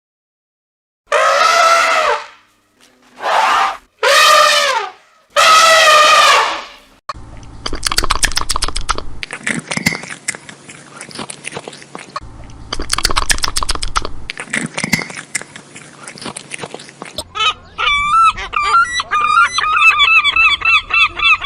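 A run of animal calls. First come three long meows from a domestic cat. Then about ten seconds of a noisier animal sound full of clicks, part of it repeated. Near the end come rapid, repeated honking calls of a goose.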